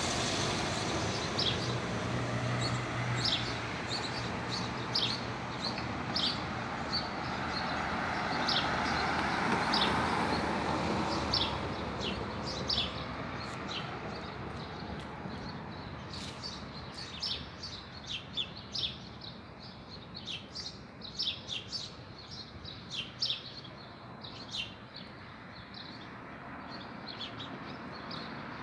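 Small songbirds chirping, many short high calls repeated throughout and busier in the second half, over the sound of a car passing in the first half.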